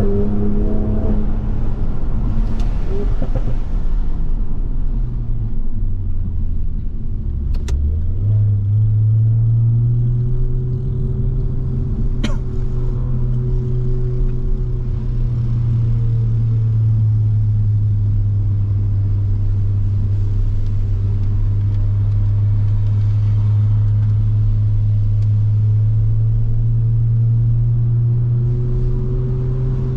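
Toyota Supra MK5 engine heard from inside the car, its pitch falling as the car slows over the first seven seconds, then rising again about eight seconds in and holding a steady drone at cruising speed. Two brief sharp clicks come about eight and twelve seconds in.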